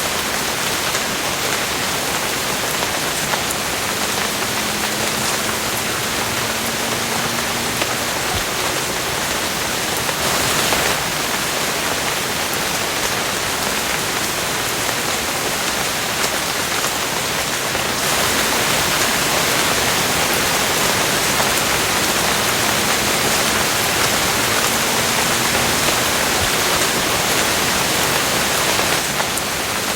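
Steady, heavy rainfall, a dense even hiss of rain on surfaces. It grows a little louder a bit past halfway and eases off again near the end.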